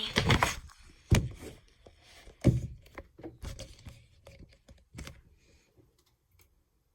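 Handling noise on a desk: a string of knocks and clicks as small plastic parts and a glue bottle are picked up and set down, the loudest about one and two and a half seconds in, tapering to faint clicks.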